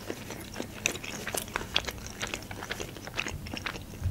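Close-miked chewing of a mouthful of sushi roll, with many small irregular wet clicks of the mouth.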